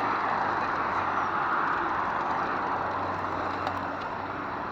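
Steady rushing noise of a bicycle being ridden, tyres rolling on the trail and air rushing past the camera, slowly easing off.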